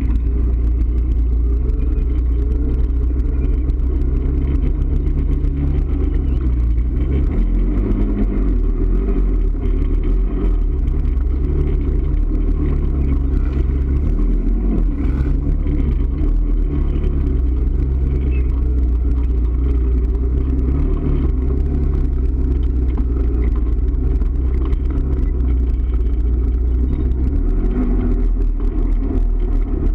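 A motor vehicle's engine running under load at low revs while driving, with a heavy rumble; its pitch dips and picks up again a few times as the throttle changes.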